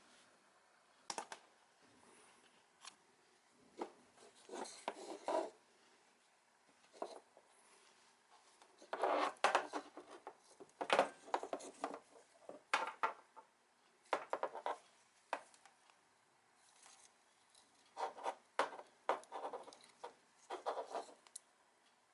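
Intermittent scraping, rubbing and clicking of hand work on engine parts, coming in clusters with short quiet gaps between them.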